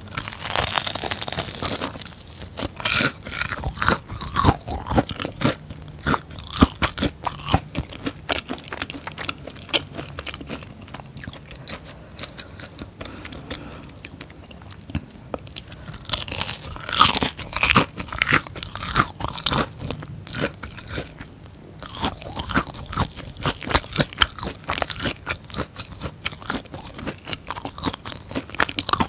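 Close-miked biting and chewing of a fried cream cheese ball: crisp crunches of the crust mixed with soft mouth sounds. The crunching comes in busy spells, about a second in and again past halfway.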